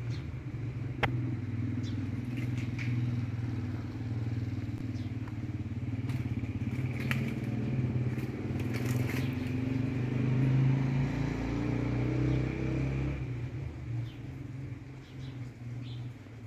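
An engine running steadily, swelling a little and then dropping back about three-quarters of the way through, with a sharp click about a second in.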